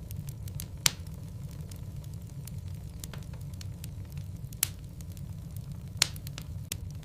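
Wood logs burning in a fireplace: a steady low rumble of the flames with scattered sharp crackles and pops, three louder pops about a second in, past four and a half seconds, and at about six seconds.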